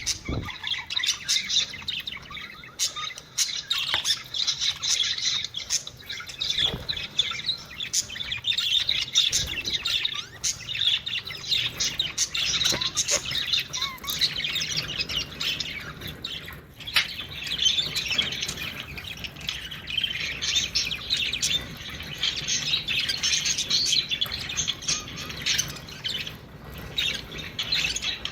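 Budgerigars chattering and warbling in a dense, unbroken stream of chirps: the excited budgie chatter sold as a mating call to get other budgies to breed.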